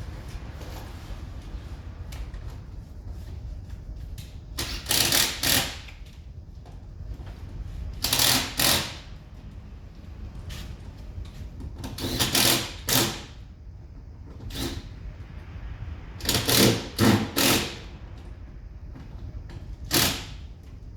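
Cordless impact driver running in about ten short bursts, some in quick groups of two or three, driving screws.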